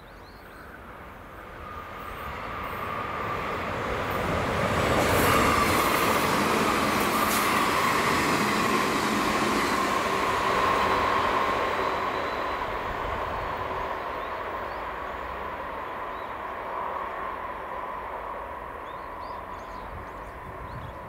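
JR West 381 series tilting electric train, six cars, passing at speed: it grows louder over a few seconds, runs past loudly for several seconds, then fades as it recedes. A steady whine runs through the pass and drops slightly in pitch once the train has gone by.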